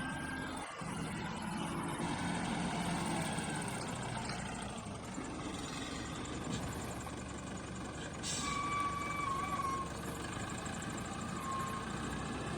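A steady mechanical running noise with a low hum, and a brief wavering whistle-like tone a little after eight seconds in.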